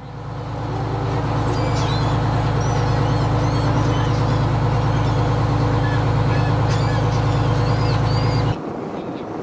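Boat engine running steadily under way, with short high chirps over it; it cuts off abruptly near the end.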